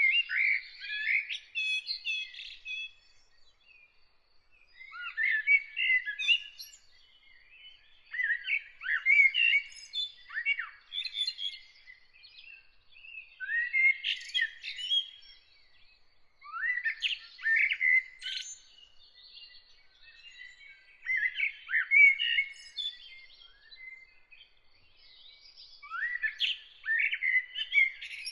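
A songbird singing in short warbled phrases of about two seconds, each followed by a brief pause, over and over. Under it runs a faint, steady, high repeated note.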